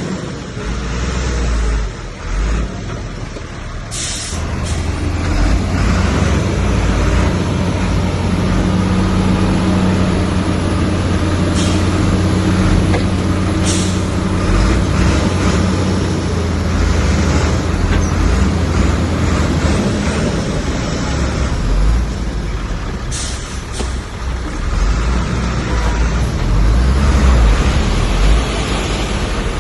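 Heavy diesel earthmoving machinery running hard, a bulldozer or dump truck engine working under load with a steady deep drone that builds a few seconds in. Short high hisses break through about four times.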